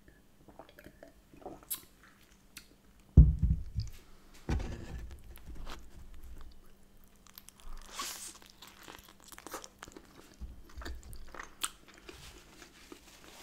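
Close-miked eating: biting into and chewing a soft bagel filled with smoked salmon, cream cheese, avocado and onion, with small wet mouth clicks. There are two low thumps about three and four and a half seconds in, and a louder bite about eight seconds in.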